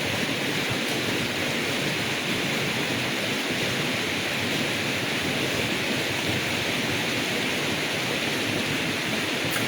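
River water rushing over rocks: a steady, even hiss of flowing water.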